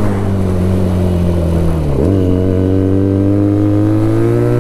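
Benelli TNT 300's 300 cc parallel-twin engine running through an aftermarket Ixil full-system exhaust while being ridden. The engine note sinks slowly, dips sharply about two seconds in, then holds and climbs gently.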